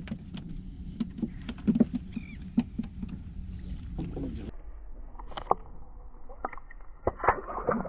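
Scattered knocks and clicks of handling aboard a small fishing boat over a steady low rumble. The background changes abruptly about four and a half seconds in, as at a cut.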